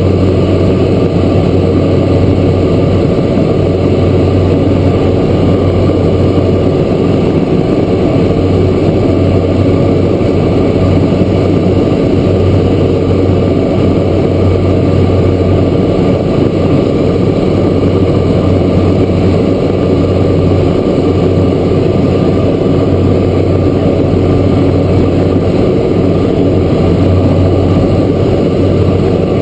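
Cessna Grand Caravan's Pratt & Whitney PT6A turboprop engine and propeller running steadily at high power, a loud even drone with a strong low hum from the propeller.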